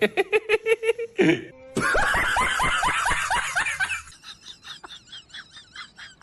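Human laughter in rapid repeated bursts, loudest and highest-pitched between about two and four seconds in, then dying down.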